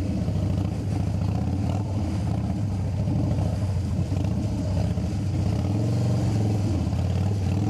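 Harley-Davidson Dyna's V-twin engine running steadily at low speed with a rapid, even firing pulse, riding a rocky off-road track.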